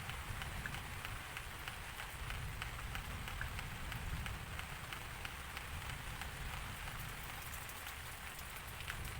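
Steady rain falling, with many small drop ticks over an even hiss and a constant low rumble underneath.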